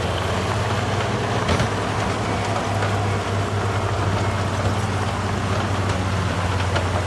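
Heavy diesel engine of an earthmoving machine running steadily under load, with a few faint knocks.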